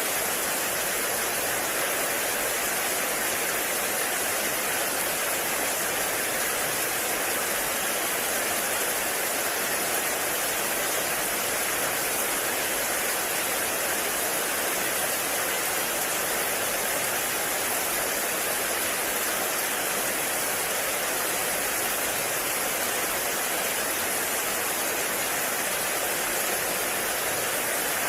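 Heavy rain falling steadily in a forest, a dense even hiss with no breaks.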